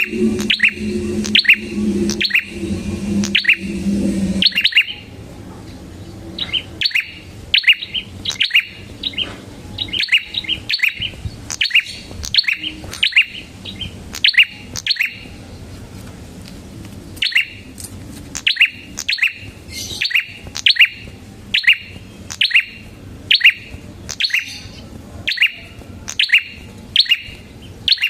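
Red-headed prenjak singing: sharp, high chirps repeated about once or twice a second, with a short break about halfway through. A low hum runs under the first few seconds.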